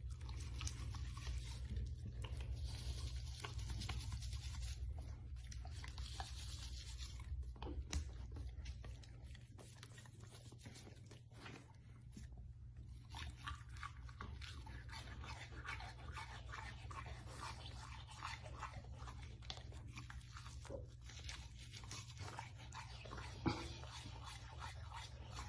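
A brush scraping through a golden retriever's thick coat in repeated scratchy, crunching strokes, over a steady low hum.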